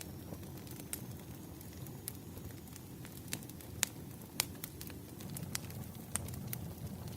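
Wood fire crackling: scattered, irregular sharp snaps and pops over a steady low rumble of burning logs, with two louder snaps a little past the middle.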